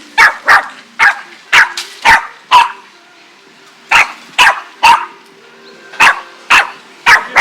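A dog barking on alert: short, sharp barks in quick runs of two to four, about a dozen in all, with a pause of about a second midway.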